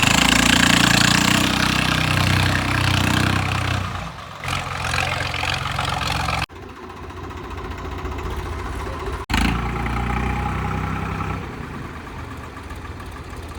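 Diesel tractor engine running, its pitch shifting up and down with the throttle. The sound breaks off abruptly about six and a half and about nine seconds in.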